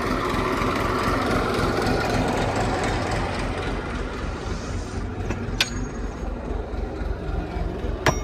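Heavy diesel engine of farm machinery running steadily with a low pulsing beat, its higher noise easing about halfway through. Two sharp metallic clicks come near the end.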